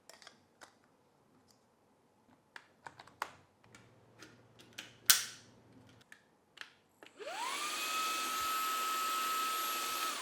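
Plastic clicks and snaps as the parts of a Shark WV201 WANDVAC cordless handheld vacuum are fitted back together. About seven seconds in its motor starts, its whine rising in pitch and then running steady over an airy hiss, and it begins to wind down right at the end.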